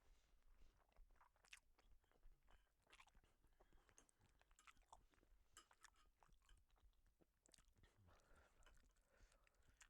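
Faint close-up chewing of a mouthful of noodles: irregular small wet mouth clicks and smacks.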